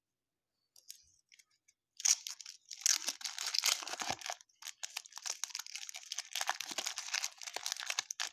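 Baseball card pack wrapper being torn open and handled, a dense crinkling run that starts about two seconds in after a near-silent start.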